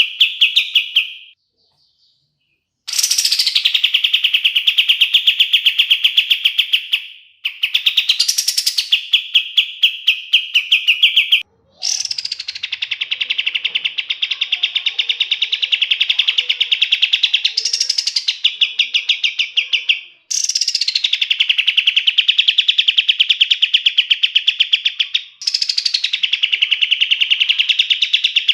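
A kapas tembak songbird singing long, rapid rolling trills. Each phrase opens with a sharp upward-swept note, then runs on for several seconds as a fast, even rattle of high notes. There are brief pauses between phrases, the longest about a second and a half near the start.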